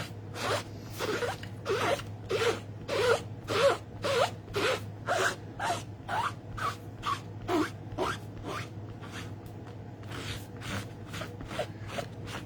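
Rubber stamp being scrubbed clean of ink with quick back-and-forth strokes, about two a second, each stroke squeaking; the strokes grow fainter in the last few seconds.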